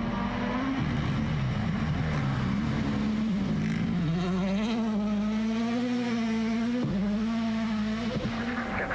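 Rally car engine running hard, its pitch rising and falling through the gears, with a sudden brief drop about seven seconds in.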